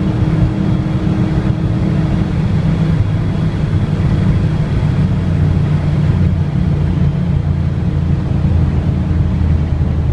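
2002 Camaro SS's 5.7-litre LS1 V8 running steadily, a deep exhaust drone that holds at a nearly even pitch.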